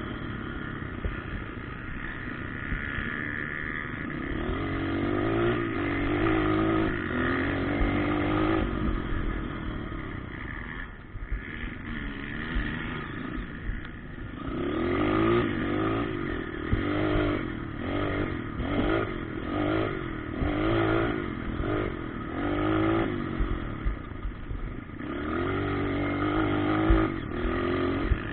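Motocross motorcycle engines revving, the pitch climbing and dropping with the throttle; about halfway through, a run of short revs comes roughly once a second.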